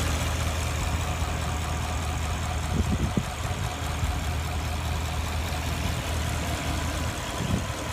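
2016 Porsche Panamera Turbo's 4.8-litre twin-turbo V8 idling steadily.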